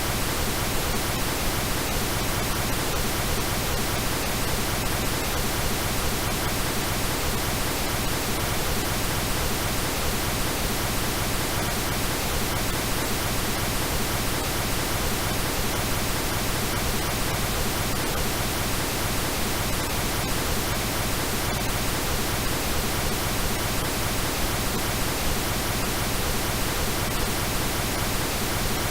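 Synthetic pink noise: a steady, unchanging hiss spread evenly from low to high pitches.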